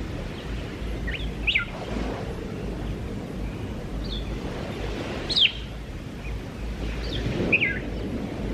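Birds chirping outdoors: short, sharp calls sweeping downward in pitch, one every second or two, over steady background noise.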